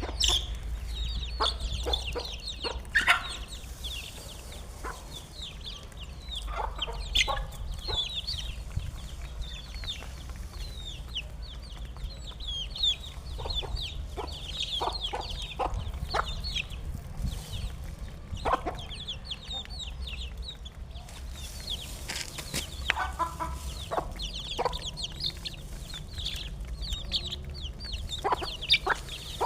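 Flock of chickens clucking and calling at feeding time, with many short, high, falling chirps and a few sharp clicks or knocks scattered throughout.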